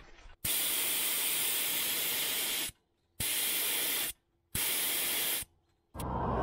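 Three bursts of steady, even hissing, the first about two seconds long and the next two about a second each, each starting and cutting off sharply. Just before the end a lower, rumbling sound starts.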